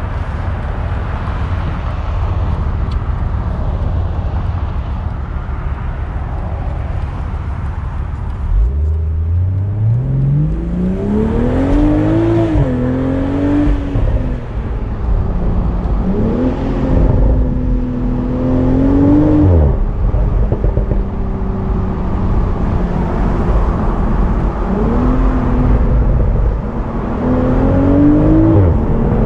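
BMW Z4 M40i's turbocharged 3.0-litre inline-six under a steady cruise with road noise, then accelerating hard about eight seconds in: the engine note climbs steeply, dips briefly and climbs again, then drops away sharply as the throttle closes. It pulls up again twice near the end.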